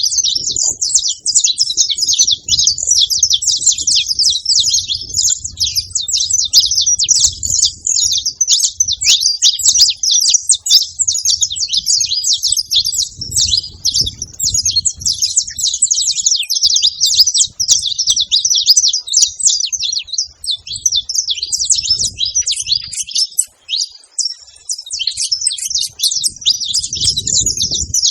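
Saffron finches chirping without a break, a dense run of many short, high, overlapping chirps, with a brief lull near the end.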